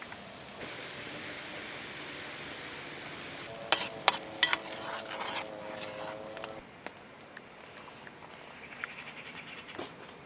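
Food frying with a steady sizzle that stops abruptly a little past the middle. A few sharp clicks, like a utensil against the pan, come about four seconds in. A steady pitched tone is held for about three seconds alongside the sizzle.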